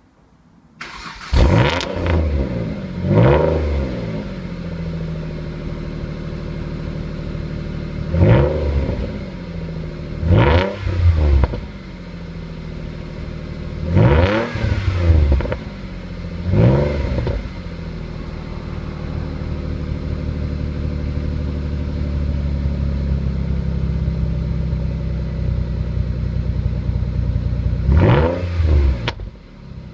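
Car engine breathing through a stainless flexi-back exhaust, starting about a second in, then idling steadily between about ten quick throttle blips that rise and fall in pitch, in clusters near the start, in the middle and near the end.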